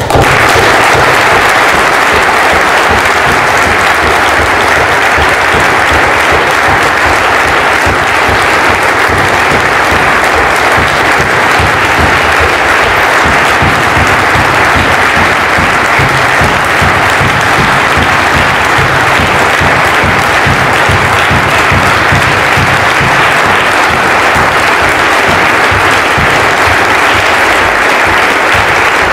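Large indoor crowd breaking into loud applause all at once and keeping it up evenly throughout: a minute of applause.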